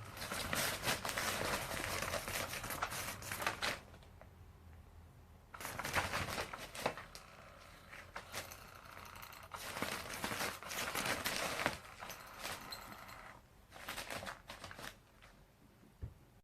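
Crinkling and rustling in irregular bursts with small clicks and knocks, from a cat scrabbling at and batting an electric moving-feather cat toy, with quieter gaps between bouts.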